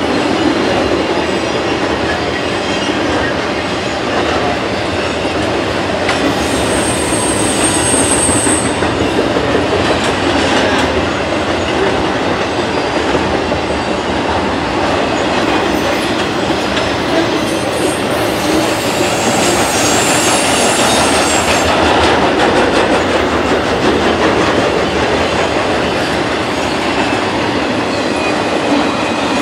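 Flatcars of a Norfolk Southern intermodal train loaded with highway trailers rolling steadily past, steel wheels rumbling and clicking on the rails. A brief high-pitched wheel squeal rings out about seven seconds in.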